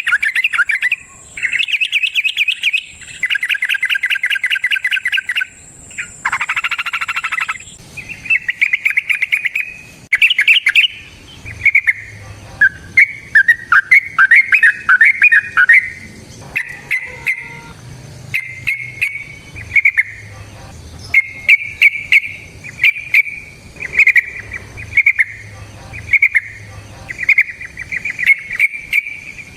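Yellow-vented bulbul (trucukan) singing: long, fast rattling trills for the first several seconds, then short bubbly chattering phrases repeated about once a second.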